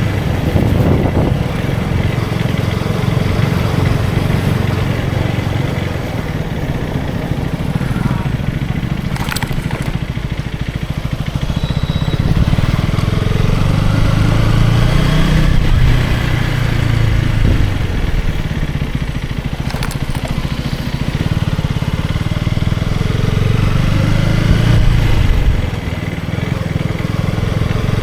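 KTM Duke 250's single-cylinder engine running steadily at road speed with wind and road noise. The engine note rises and eases a few times as the throttle changes, then drops suddenly near the end.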